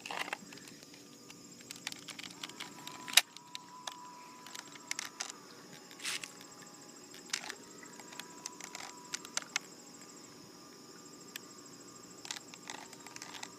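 Small electric motor of a toy remote-control boat whining faintly at a steady pitch, starting after a sharp knock about three seconds in. Scattered clicks and knocks come through it.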